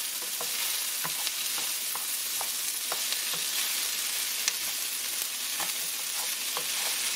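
Diced potatoes, onion, chile and ham sizzling steadily in oil in a nonstick skillet while being stirred with a wooden spoon, with irregular light clicks and scrapes of the spoon against the pan.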